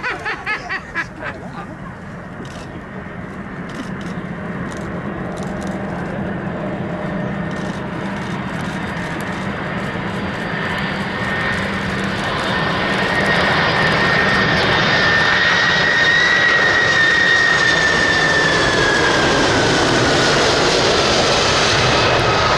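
Jet airliner flying past low, its engine noise building steadily as it approaches, then holding loud. Its high engine whine slides down in pitch in the second half as it goes by.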